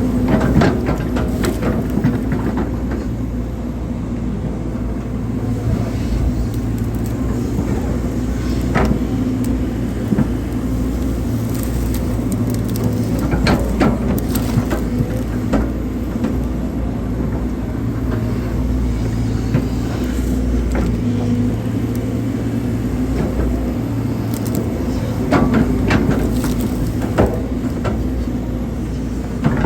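Hydraulic excavator's diesel engine running steadily while it works, with a few short knocks scattered through.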